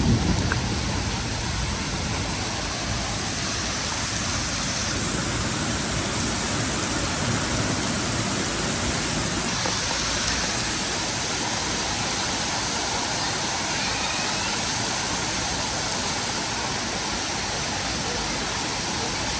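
Heavy downpour: a steady, dense hiss of rain. The tail of a thunder rumble dies away at the very start.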